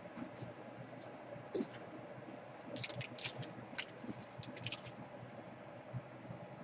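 Light clicks and small scratching rattles from hard parts being handled, bunched into a quick flurry in the middle.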